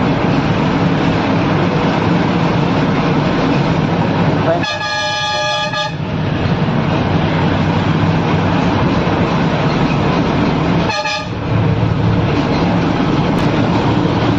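Vehicle running with a steady loud road-and-engine rumble, and its horn sounded twice: a long honk of about a second and a half about four and a half seconds in, and a short honk near eleven seconds.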